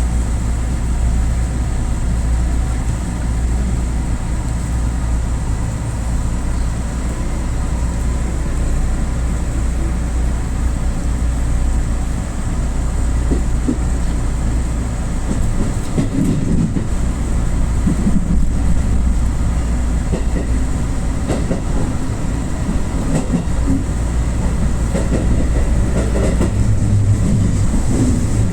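Running noise of an electric rapid train heard from inside, just behind the driver's cab: a steady low rumble of wheels on rail, with irregular knocks of the wheels over the track from about halfway on.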